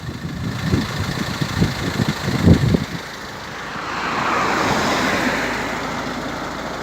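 Irregular low rumbling thumps for about three seconds, then a passing vehicle's road noise swelling and fading away.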